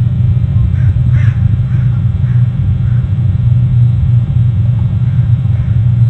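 A bird calling about six times in quick succession, then a few fainter calls near the end, over a loud, steady low rumble.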